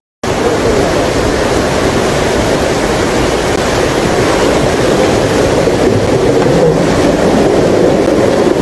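Loud, steady rushing of muddy floodwater pouring over a concrete edge. It starts abruptly.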